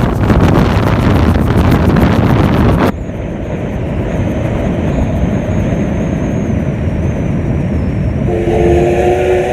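A loud rushing noise cuts off about three seconds in, leaving a quieter rumble with a thin high whine. Near the end, a train whistle sounds a chord of several steady notes held for a couple of seconds.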